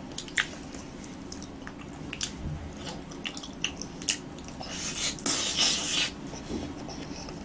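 Close-miked eating sounds of roasted sweet potato: scattered small wet mouth clicks and smacks while chewing, with a louder hissing stretch about five seconds in as a big mouthful goes in.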